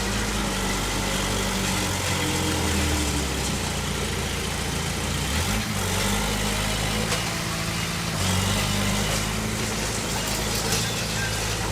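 Heavy diesel engine of earth-moving machinery running steadily, its pitch shifting slightly a few times.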